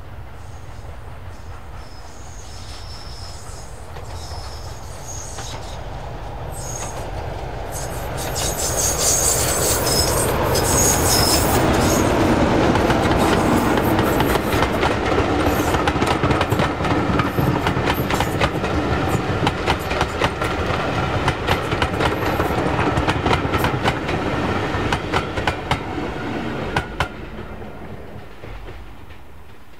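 A train passing close by, its wheels clattering over rail joints. The sound builds up, is loudest through the middle, and dies away near the end.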